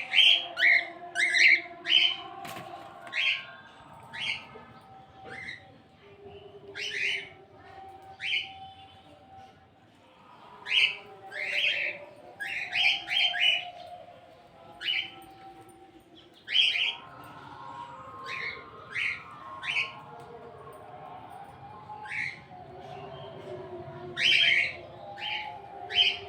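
Birds calling: many short, sharp chirps in irregular quick runs, over softer, wavering lower calls.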